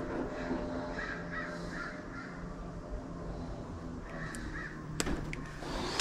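A bird's harsh calls in two short series, about a second in and again about four seconds in, over a low steady hum, with a sharp click near the end.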